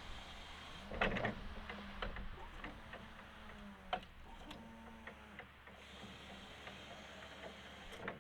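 Electric forklift hydraulic pump motor humming steadily in two stretches, starting with a click and clunk about a second in and stopping and restarting around four seconds, with a further click near the end.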